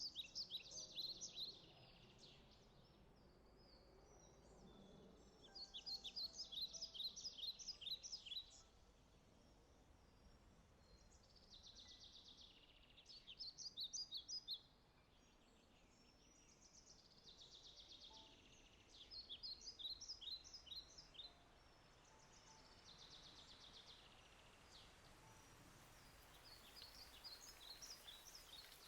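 A songbird singing faintly, repeating a short phrase of rapid high chirps and trills every five or six seconds, over a faint steady hiss of light forest rain.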